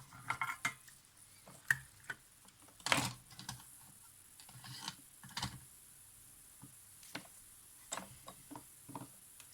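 Small hand tools clicking and tapping on camera parts during solder cleanup: irregular light clicks, with louder taps about three seconds in and again about five seconds in, and a few faint ticks near the end.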